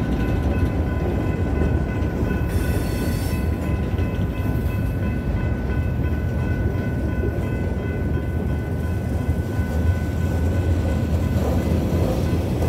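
Freight cars of a BNSF mixed freight train rolling past at a grade crossing, with a brief high wheel squeal about three seconds in. Behind it the crossing's GS Type 3 electronic bells ring steadily.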